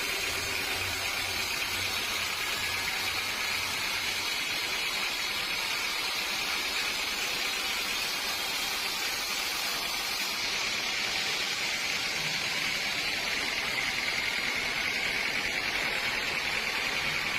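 Sawmill machinery running steadily: an even hiss with a steady high whine over it.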